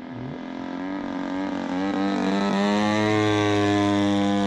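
The EME60 single-cylinder two-stroke gas engine of a giant-scale RC Zero, driving a three-blade propeller, running at speed during a low pass. It grows louder toward a peak about three seconds in, and its pitch drops slightly as it passes, then holds steady.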